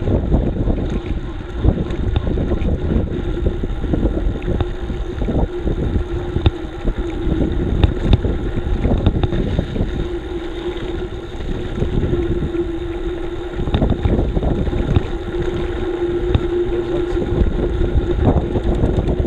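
Wind buffeting an action camera's microphone on a moving bicycle, a continuous low rumble with road and tyre noise and a steady hum that grows stronger about halfway through.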